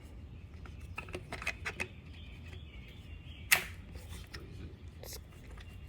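Scattered small clicks and taps of hands handling parts at close range, with one sharp click a little past halfway.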